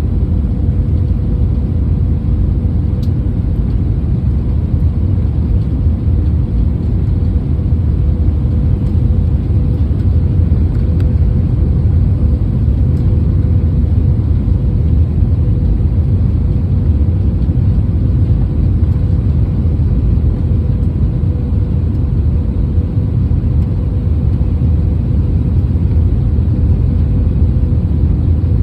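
Airliner cabin noise on the way in to land: a steady low rumble of engines and airflow, with a constant hum over it.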